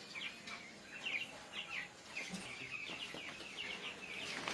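A flock of young broiler chicks chirping, many short high peeps overlapping.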